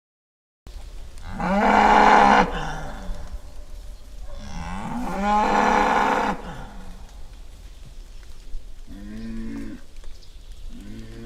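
Cattle mooing: two long, loud moos, then two shorter, quieter ones near the end.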